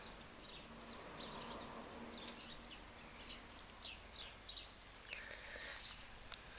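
Faint birds chirping, many short high calls scattered throughout over a low background hiss.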